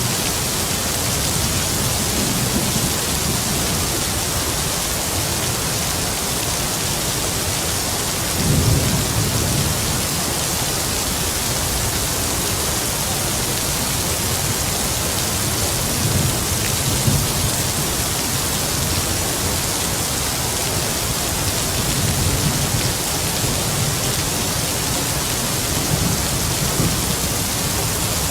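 Heavy rain falling steadily with a dense hiss, under low rumbles of distant thunder that swell and fade several times, the strongest about a third of the way in.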